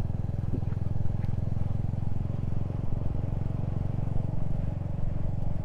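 Motorcycle engine running at a steady cruise, a low even rumble with road and wind noise, heard from on board the moving bike.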